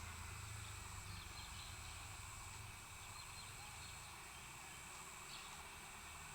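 Faint outdoor ambience: a steady high-pitched insect drone with scattered short chirps, over a low rumble that drops off a little about three seconds in.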